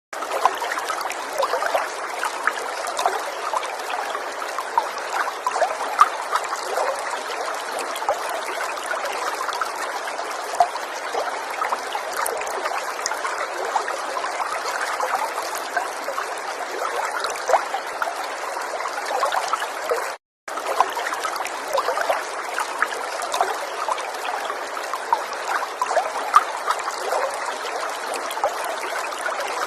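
River water running over stones, a steady babbling and trickling with many small splashes. It cuts out to silence for a moment about twenty seconds in.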